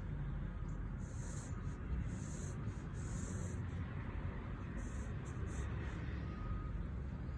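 Pencil drawing on paper: several short scratching strokes with pauses between them, over a steady low rumble.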